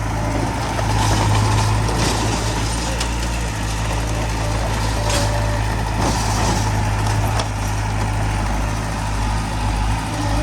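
Heavy diesel machinery running steadily, with a few brief knocks and hisses mixed in.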